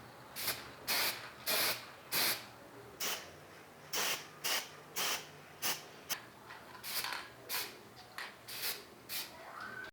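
Trigger spray bottle squirted again and again, about twenty short hissing sprays at roughly two a second, wetting rusty typewriter parts with cleaner.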